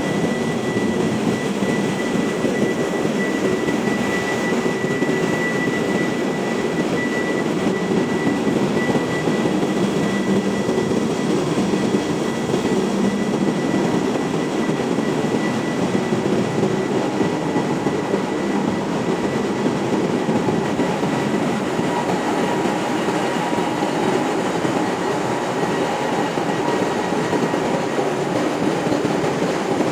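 Ship's engine room machinery running steadily: a dense, constant mechanical din, with a thin high whine over it that fades out about halfway through.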